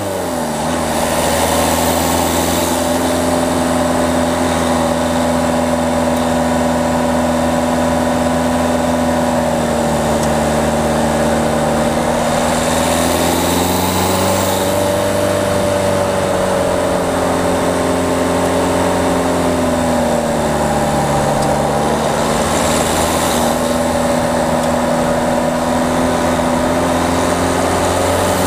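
Peugeot 208's diesel engine running under load at a steady pitch. The pitch drops at the start, then sags and climbs again twice as the driver eases off and accelerates, over steady road and wind noise.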